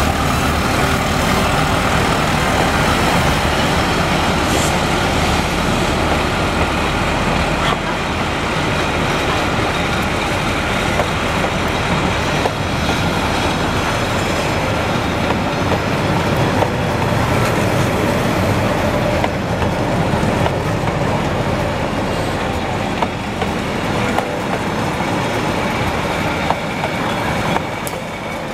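Diesel-hauled passenger train passing close by. A heavy low rumble while the locomotive is near at first, then the coaches rolling past on the rails with scattered clicks, a little quieter near the end.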